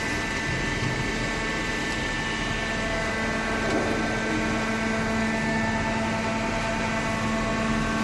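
Two-ram horizontal hydraulic baler running: a steady machine hum from its hydraulic power unit, with several held tones over a constant mechanical noise.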